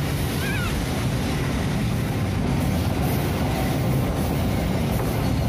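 Freight train of flat wagons loaded with shipping containers passing close by, its wheels running steadily over the rails.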